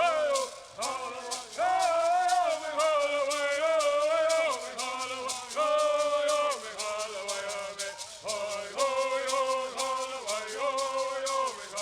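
Southern California Native American bird singing: male voices singing melodic phrases over a steady, rapid shaking of gourd rattles.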